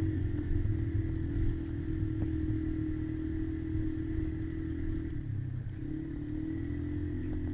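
Kymco Maxxer 300 quad's single-cylinder engine running steadily under way. Its pitch drops briefly about five seconds in as the throttle eases, then picks back up.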